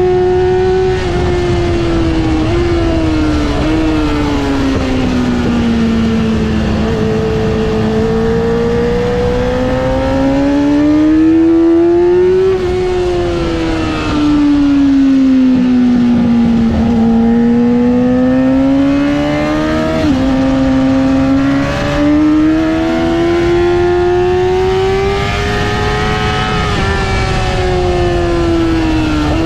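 Yamaha R6's inline-four engine at speed on track, its high-revving note climbing and falling slowly over several seconds at a time through the corners, with a brief dip in revs about two-thirds of the way through, over a constant rush of wind and road noise.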